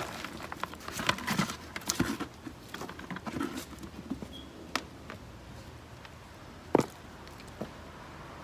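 Soil in a potato container being dug through, with irregular rustling, crumbling and small clicks, busiest in the first few seconds, then quieter with one sharp knock about seven seconds in.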